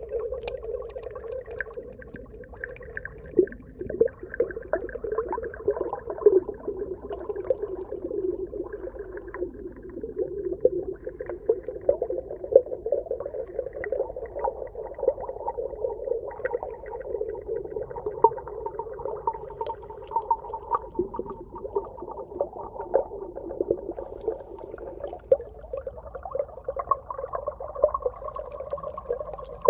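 Underwater ambience: a continuous wavering tone with a fainter higher tone above it, dotted with many small clicks and pops.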